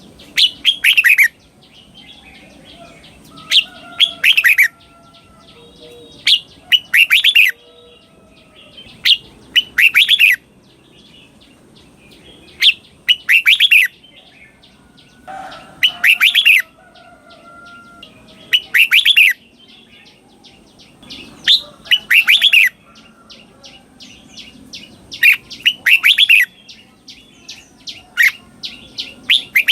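Red-whiskered bulbul singing its doubled song: a short run of quick, bright whistled notes repeated about every three seconds, with faint rapid chirping in between.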